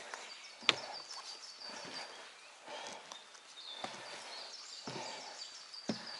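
A hiker's footsteps on a mountain trail's steps, sharp knocks about a second apart, the loudest a little under a second in. Behind them come two runs of rapid, evenly repeated high chirping notes.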